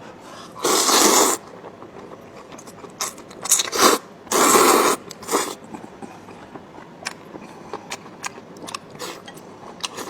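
Close-up eating sounds: two loud, noisy slurps of about a second each, with shorter ones between. Near the end come many small crisp clicks of chewing.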